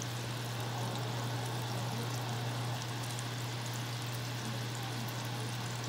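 Slices of ham sizzling steadily in hot oil in a frying pan, with a steady low hum underneath.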